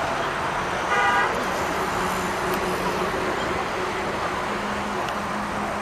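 Steady road traffic noise, with one short vehicle horn honk about a second in.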